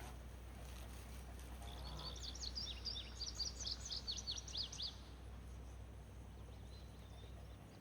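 A small songbird singing a quick twittering phrase of high chirps for about three seconds, over a faint steady low rumble.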